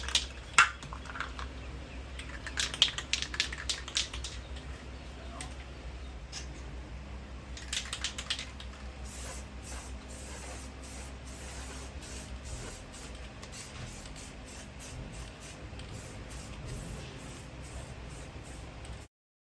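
Spray paint hissing out in many short, evenly repeated bursts as a second coat goes onto a truck bumper, starting about nine seconds in. Before that come several sharp clicks and knocks.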